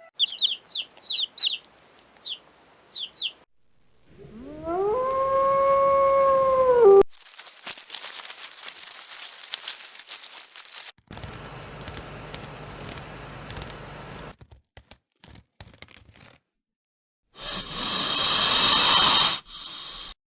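A string of different animal sounds cut one after another: quick high chirps, then a long call that rises in pitch and holds, then noisy stretches with scattered clicks and a loud hiss near the end.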